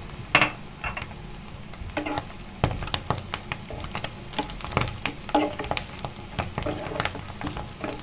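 Fenugreek leaves and onions sizzling in hot oil in a metal kadai, with a metal spoon stirring and scraping, clicking against the pan many times.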